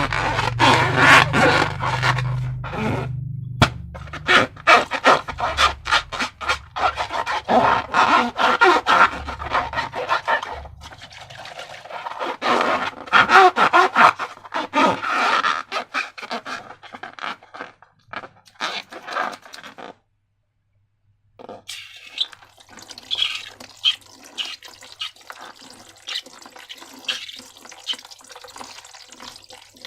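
Wet slime squishing and crackling, with dense runs of small sticky clicks and pops, broken by a short total silence about twenty seconds in.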